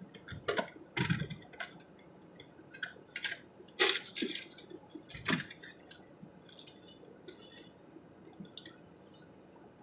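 Irregular clicks, rustles and light clinks of small objects being handled, busiest in the first five seconds, then only a few faint ticks.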